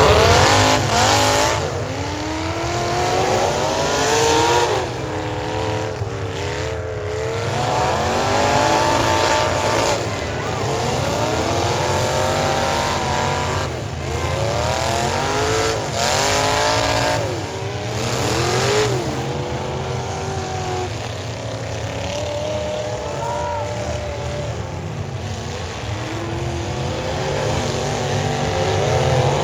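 Several demolition derby cars' engines revving hard at once, pitch rising and falling over and over on top of a steady low rumble, with a few short harsh noises mixed in.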